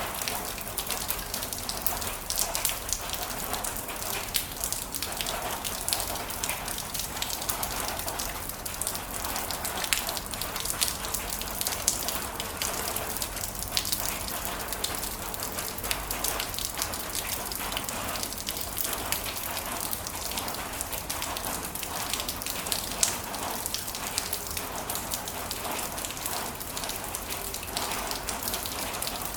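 Heavy rain falling steadily, many drops splattering on a hard surface.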